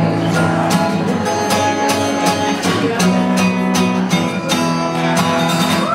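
Guitar strummed in a steady run of chords, the instrumental close of a live song.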